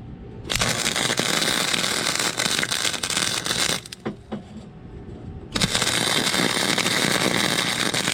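Wire-feed welder arc crackling steadily in two beads, the first for about three seconds, then a pause of under two seconds, then a second bead running to the end. The arc runs smoothly on a fresh copper contact tip; the worn old tip had been causing poor welds.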